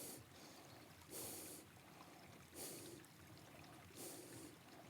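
Soft breathing close to the microphone, a quiet breath about every second and a half.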